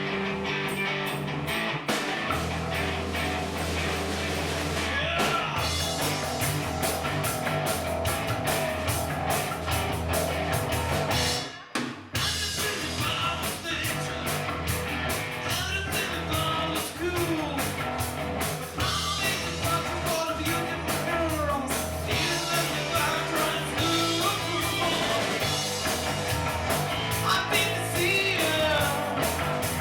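Rock band playing with drum kit, guitar and singing, with a brief break nearly halfway through before the band comes back in.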